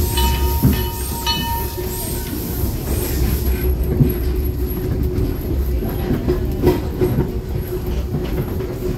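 Steam-hauled tourist train, pulled by a 15-ton 0-4-0 locomotive, rolling along the track, heard from an open passenger car. There is a steady rumble, with a repeating pulse a little more than once a second for the first three seconds, and then scattered clacks of the wheels over the rail joints.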